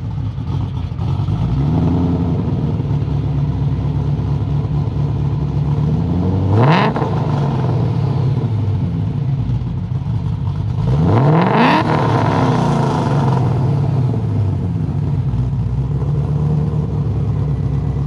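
Whipple-supercharged Ford Shelby GT500 V8 with an aftermarket cam, idling unevenly, its pitch wavering, and revved twice: a quick blip about six and a half seconds in, then a longer, louder rev around eleven seconds.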